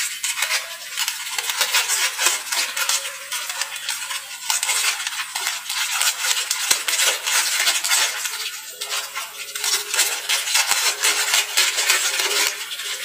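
Chopped shallots, garlic and chilli sizzling in oil with a little water in a wok: a dense, steady crackle.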